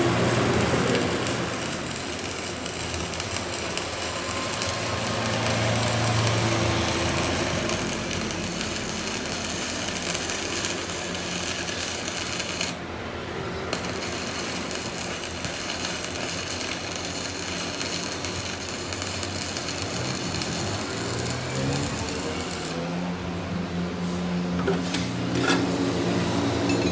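Continuous workshop noise of a power tool working metal, with a brief drop in the hiss about halfway through.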